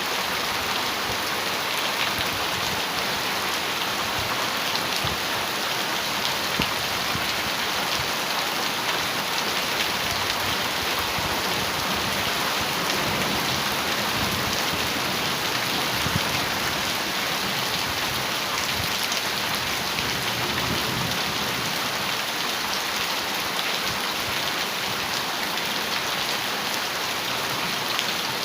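Heavy rain drumming steadily on a metal roof, a dense unbroken patter of drops.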